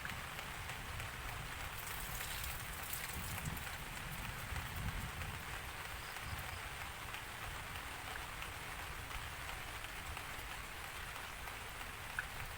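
Steady rain falling on a surface, with scattered drops and a low rumble underneath that swells slightly a few seconds in.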